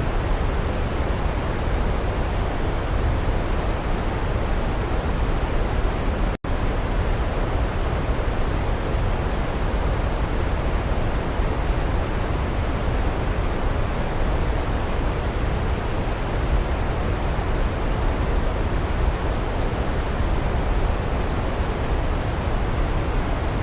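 Waterfall: a steady, dense rushing of falling water, heaviest in the low end, broken once about six seconds in by a split-second dropout.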